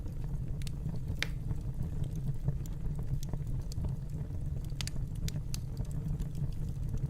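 Wood fire in a fireplace crackling: a steady low rumble of flames with scattered sharp pops and snaps.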